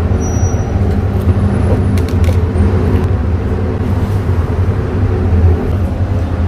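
Steady loud low machine hum with a constant drone and a few faint clicks about two seconds in.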